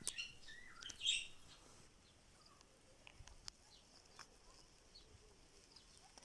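Small birds chirping, a few short calls in the first second or so, then only faint scattered ticks.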